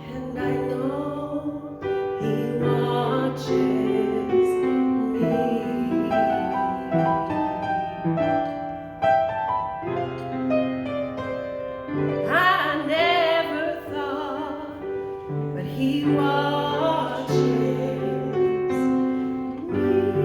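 Music: a solo voice singing a slow melody with vibrato over piano accompaniment. The voice swells on a long wavering note about two-thirds of the way through.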